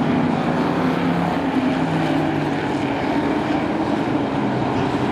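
A pack of short-track race trucks running laps, several engines sounding together at a steady level with overlapping pitches.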